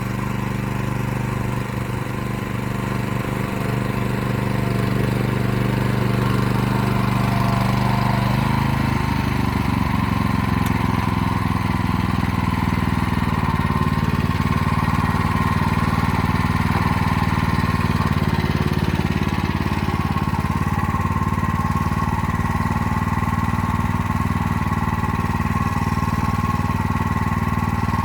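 Motor Sich walk-behind tractor engine running steadily while pulling an arrow-type hiller through the rows. Its note shifts about nine seconds in and again a few seconds later.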